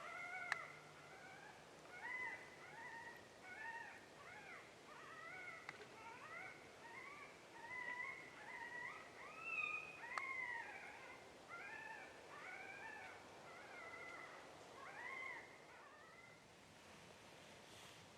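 Coyote pup distress sound played from a game caller: a faint string of short, high whimpering yelps that rise and fall, one or two a second, stopping near the end.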